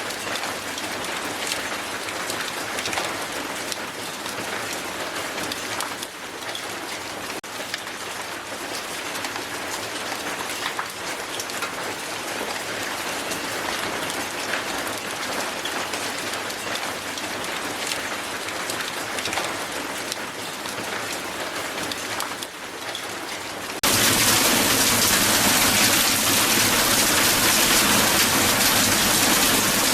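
Hail falling hard: a dense patter of many small ice pellets striking the ground, with single sharper hits standing out. About 24 s in, the sound jumps suddenly to a louder, denser and brighter downpour.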